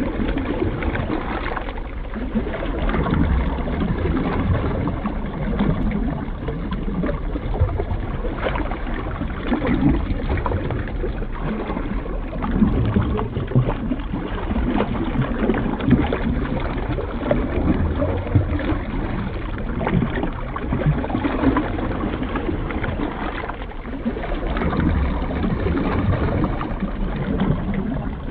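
Muffled underwater water noise, as picked up by a camera submerged in the sea: a continuous low sloshing and gurgling rumble that swells and fades.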